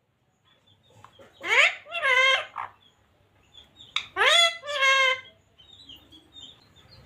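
Pet parrot calling twice, each call rising sharply in pitch and then holding a note, with a quiet gap between the two.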